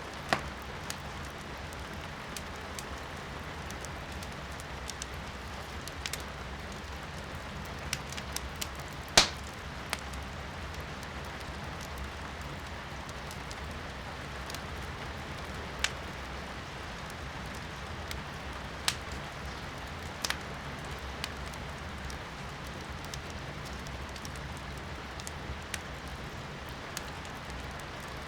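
Firewood crackling in a fireplace, with scattered sharp pops (the loudest about nine seconds in), over a steady hiss of rain heard from inside the room.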